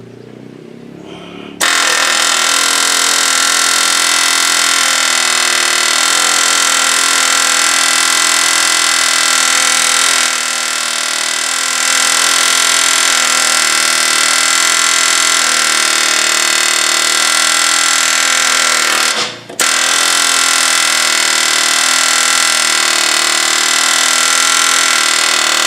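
Pneumatic air chisel hammering into the steel mower deck around the engine's mounting bolt holes. It runs loud and unbroken from a couple of seconds in, stops for a moment about three-quarters of the way through, then starts again.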